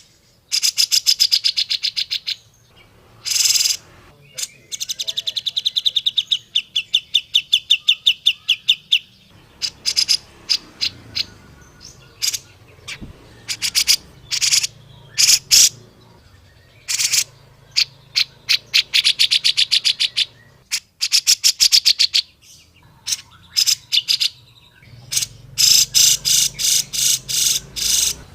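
Cucak jenggot (grey-cheeked bulbul) calling: runs of rapid, sharp chattering notes, about a dozen a second, in bursts of one to three seconds with short pauses between.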